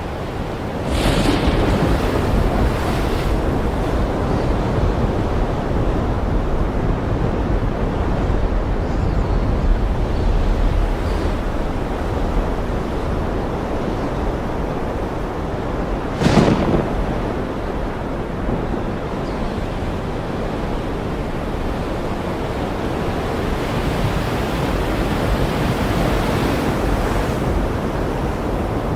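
Ocean surf washing steadily, mixed with wind, with two sudden sharp crashes, about a second in and again about halfway through.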